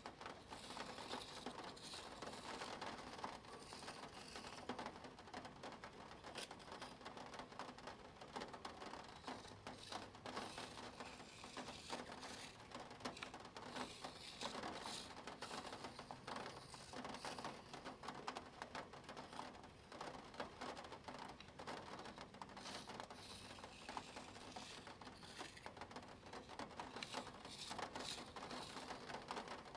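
Spirograph drawing: plastic gear wheels rolling against each other with a pen on paper, a steady run of small clicks and scratching.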